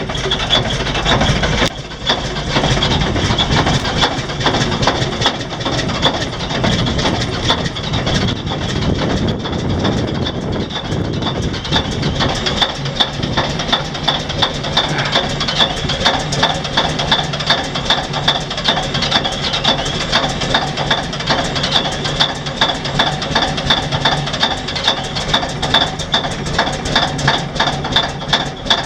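Komatsu WA600 wheel loader's diesel engine running rough just after a cold start, with a loud, regular pulsing of about two to three beats a second that becomes steadier from about halfway through. The pulsing comes from a big exhaust leak.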